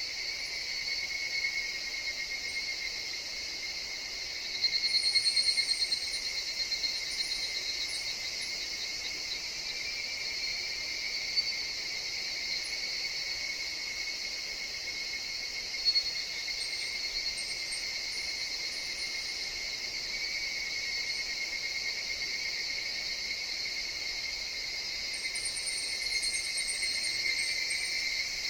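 Forest insect chorus: a steady high drone. A louder stretch of short, higher calls comes about five seconds in, with smaller ones near the end.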